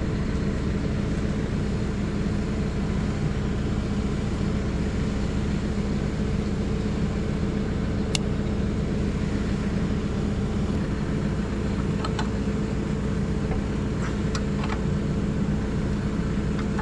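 Engine idling steadily, with a few brief sharp metallic clicks of hand tools over it.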